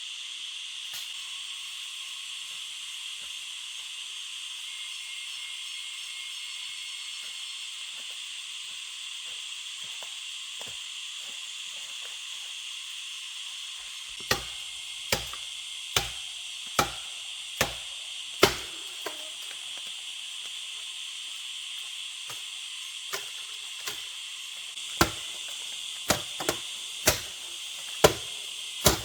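Steady high-pitched insect drone, then from about halfway a run of sharp chopping strikes, about one a second, with a pause of a few seconds between two runs.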